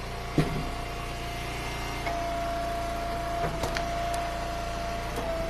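Engine-driven hydraulic log splitter running steadily under load with a steady whine while it splits a wet firewood round, a sharp crack about half a second in and a couple of lighter cracks later.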